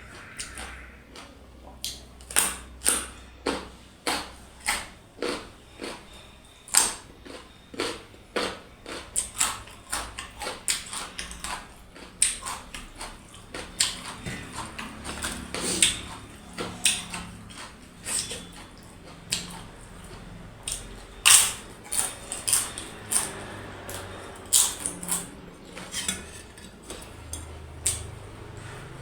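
Mukbang eating sounds: a run of sharp, irregular clicks and smacks from chewing and from food and utensils against the plate, one or two a second.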